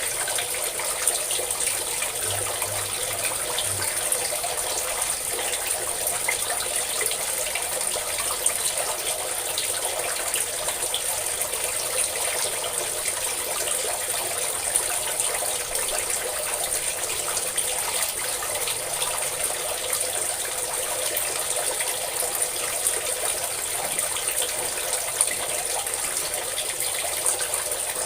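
A steady stream of water pouring and splashing, with small scattered drips and splashes in it.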